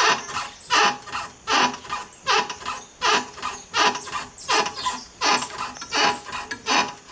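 VW Beetle front suspension squeaking in a steady rhythm, about one creaky squeal every three-quarters of a second, as the car is rocked up and down. The owner traces it to the upper ball joint and puts it down to water having got in where there is little grease.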